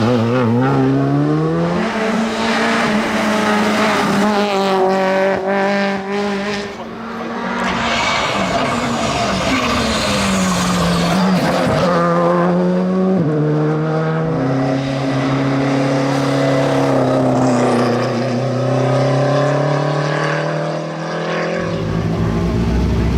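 Rally car engine being driven hard on a stage, revving up through the gears and lifting off for bends. Its pitch climbs, drops sharply and climbs again several times.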